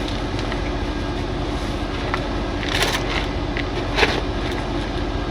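Heavy diesel truck engine idling steadily, with a few light metallic clinks and a sharper clank about four seconds in.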